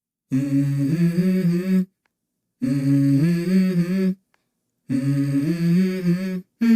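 Wordless humming vocal opening a song: three short melodic phrases, each about a second and a half, with brief silent pauses between them.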